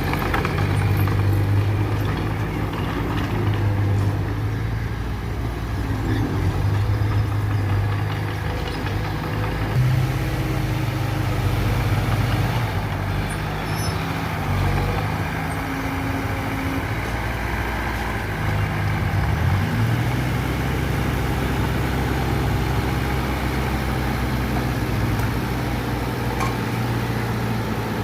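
Diesel engine of heavy earthmoving machinery running steadily under work, its pitch and load shifting about a third of the way in and again about two thirds in.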